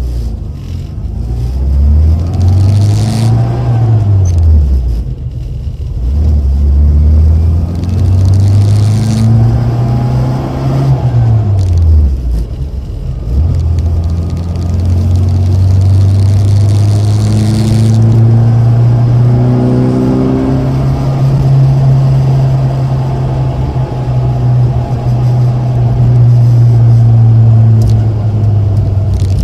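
A Rover Mini's A-series four-cylinder engine running through aftermarket HKS and Rookie mufflers as the car drives. The exhaust note rises and drops twice, as when pulling through the gears, then holds a steady pitch while cruising for the second half.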